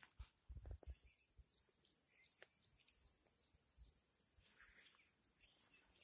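Near silence with faint outdoor ambience: a few soft handling bumps in the first second, then a few faint, brief bird chirps.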